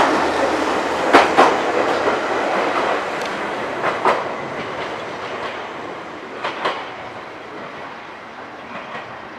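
Meitetsu 6000 series electric train pulling away. Its wheels give paired clicks over the rail joints, and the running noise fades as the train moves off.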